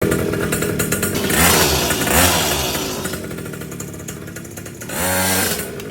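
Small 49cc two-stroke pocket bike engine revving up and down in short blips, with a quieter stretch in the middle and another rev near the end.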